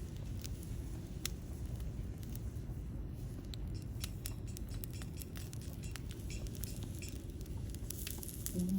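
Wood fire in a lightweight folding fire pit crackling, with scattered sharp pops over a steady low rumble.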